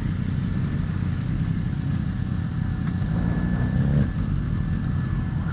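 Motorcycle engines running steadily in a low drone, with one engine revving up briefly about three and a half seconds in.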